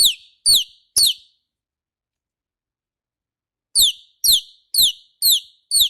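A parrot's short, high whistled chirps, each sliding downward in pitch, repeated about twice a second: three near the start, a silent gap of about two and a half seconds, then five more near the end, all sounding identical.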